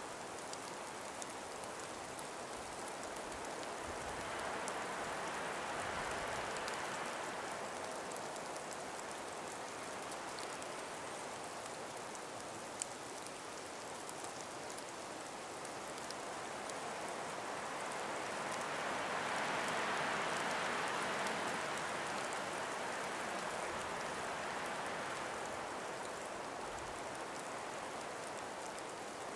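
Calm breeze blowing through ice- and snow-laden forest trees, a steady hiss that swells in two gentle gusts, one early and one past the middle.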